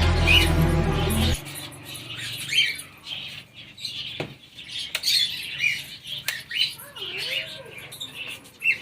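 Background music cuts off about a second in; then cage birds in an aviary give short, scattered squawks and chirps, with a few sharp clicks between them.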